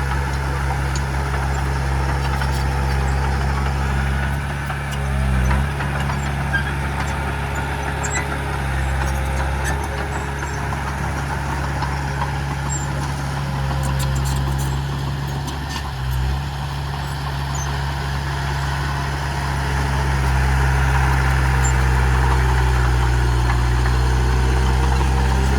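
Heavy diesel engine of earthmoving machinery running steadily, with brief dips about five and sixteen seconds in, growing louder about twenty seconds in.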